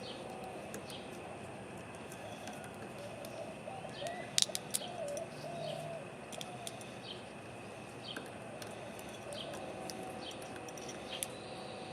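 A dove cooing in soft, wavering phrases, with a pause in the middle. A few sharp clicks come about four seconds in.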